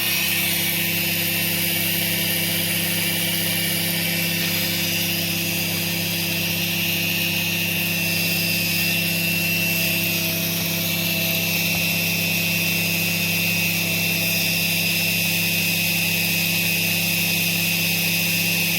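Treadmill DC electric motor running steadily on the bench with its second armature fitted: an even hum with a steady high whine and a hiss over it, not changing. It spins stably at the same current as with the first armature, a sign the motor and armature are in good order.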